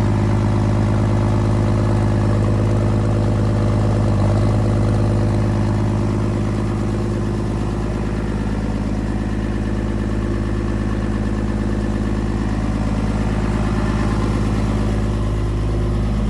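Diesel engine of a sled-pulling truck idling steadily just after being started, an even, deep-pitched run with no change in speed; running smoothly.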